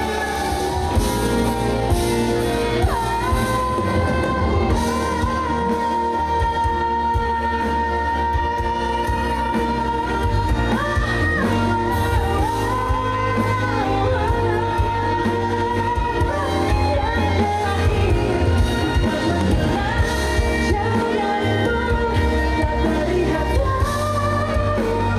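Live pop music: a female lead singer holding long, wavering sung notes over a full band with heavy bass, heard through a concert PA.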